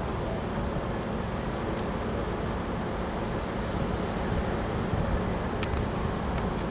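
Wind buffeting the microphone: a steady, irregularly fluttering rumble, with one sharp click about five and a half seconds in.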